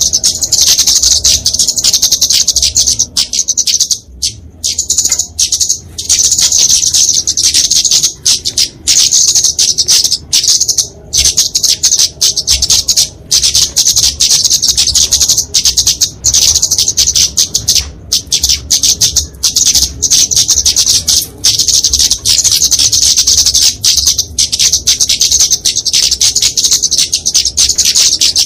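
Kemade flowerpeckers (Dicaeum) giving fighting calls: rapid, high-pitched chipping that runs on almost without pause, broken only by a few brief gaps.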